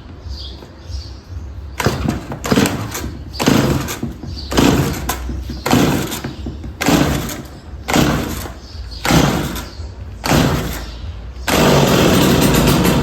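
Chainsaw pull-started with the choke fully closed: about eight pulls of the recoil starter a second or so apart, each a short rasp of the engine turning over. Near the end it fires and runs for about a second and a half, then cuts out, the first sign of catching on a saw that has sat unused a long time.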